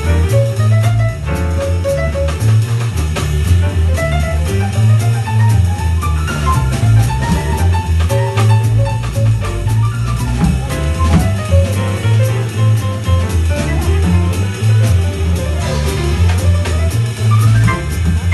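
A small jazz band playing an instrumental tune: a bass line and a drum kit with frequent cymbal strokes under a moving melodic lead, with guitar prominent.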